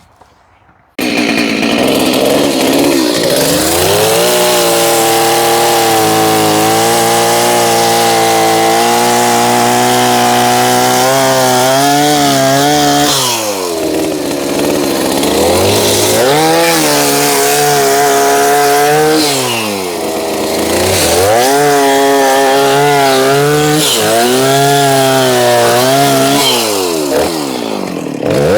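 Chainsaw fitted with a worn-out chain cutting into a fiberglass boat. It revs up to a steady high pitch, then drops back and revs up again three times as the cut goes on.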